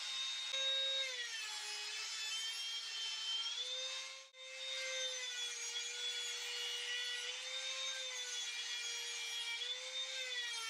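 Trim router running at high speed with a steady whine, its pitch sagging and recovering several times as the bit cuts wood. The sound drops out briefly a little before halfway.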